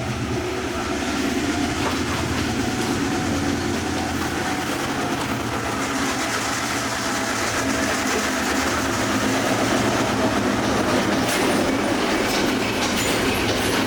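Passenger train pulling into a station, its diesel locomotive's engine humming steadily under the rumble and clatter of the wheels on the rails.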